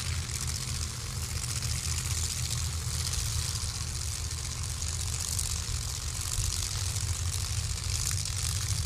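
Drag racing cars' V8 engines idling, a steady low rumble with a constant hiss above it.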